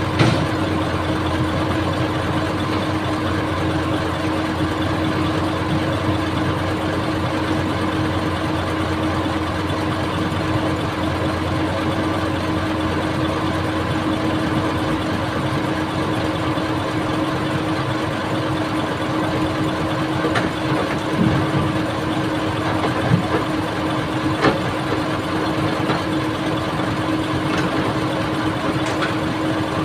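Old excavator's diesel engine running steadily, with a few sharp knocks at the start and in the second half.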